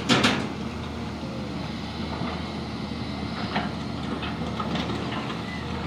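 Heavy diesel engine running steadily with a low rumble, with a loud sudden noise right at the start.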